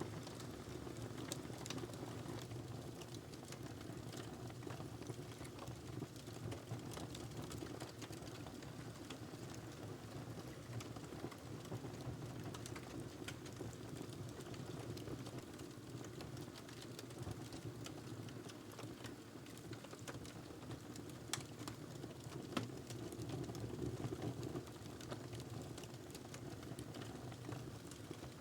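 Log fire burning in a fireplace: a steady low rush of the flames with scattered small crackles and pops, and a couple of sharper pops about three-quarters of the way through.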